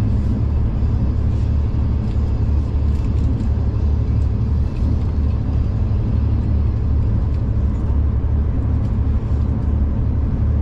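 Steady low rumble of a moving passenger train, with a few faint clicks about three seconds in.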